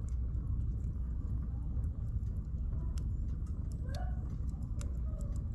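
Campfire firewood burning, with scattered sharp crackles and pops over a steady low rumble.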